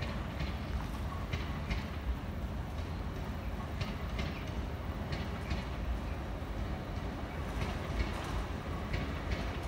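LNER Azuma high-speed train running in along the platform line, a steady low rumble with irregular clicks of the wheels passing over rail joints and points.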